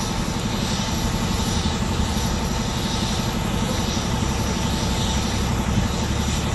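Strong wind buffeting the microphone: a loud, steady, fluttering rumble.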